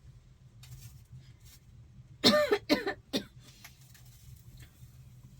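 A person coughing three times in quick succession, about two seconds in, over a low steady background hum.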